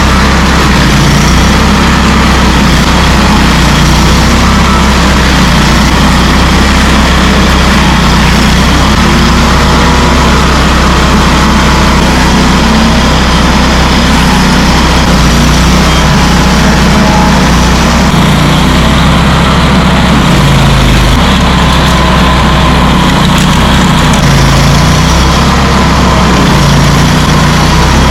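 Bandit SG-40 stump grinder running steadily and loud, its engine holding an even note under a dense rasping noise of the cutter wheel.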